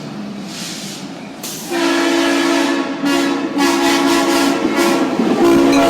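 Train rumble, then a locomotive's multi-tone air horn blowing a series of loud blasts with short breaks between them, starting about two seconds in.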